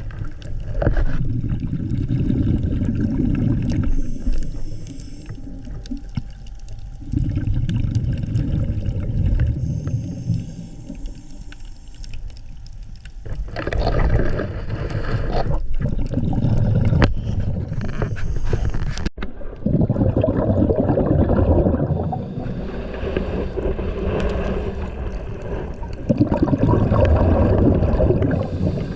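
Muffled water sounds with gurgling, swelling and fading every few seconds, with a few short clicks.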